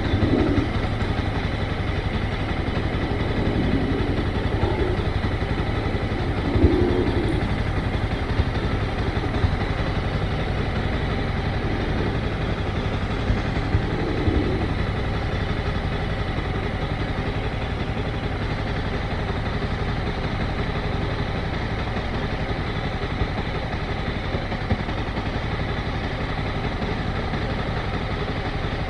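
Motorcycle engine running steadily at low revs, with several brief swells in the first half.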